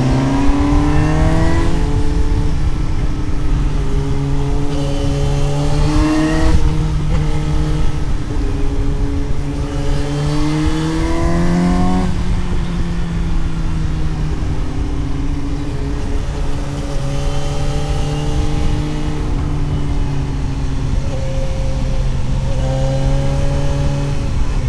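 Suzuki GSX-S750's inline-four engine under way, the revs climbing and then dropping sharply twice, about six and a half and twelve seconds in, as the rider works through the gears. After that it runs on at a steadier, slowly falling pitch, rising a little near the end.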